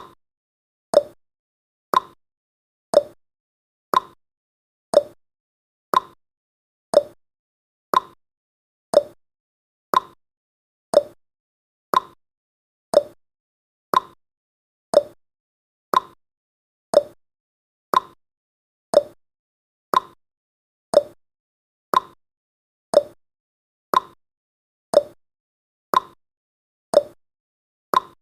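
Clock-style ticking from a countdown timer sound effect, one short tick every second, seemingly alternating between a lower and a higher tick like a tick-tock.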